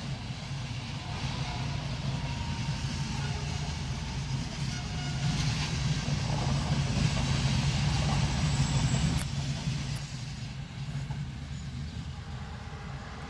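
Passenger train coaches rolling past on the track: a steady rumble of wheels on rail, loudest around the middle.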